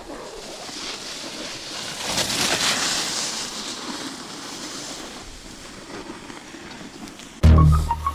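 Wind rushing over the microphone as a noisy hiss, swelling for a second or two and easing off. Near the end, loud music with a plucked melody cuts in.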